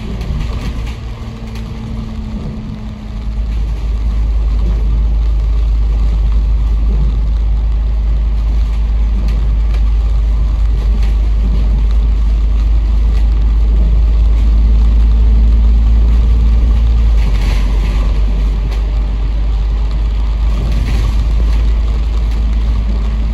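A bus's diesel engine running, a deep rumble heard from inside the bus. It steps up in loudness about three seconds in and then holds steady, with a faint hum coming and going above it.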